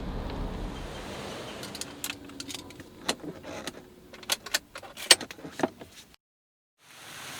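A low rumble fading away, then a run of sharp clicks and knocks from objects being handled, the loudest near the end, before the sound cuts off abruptly.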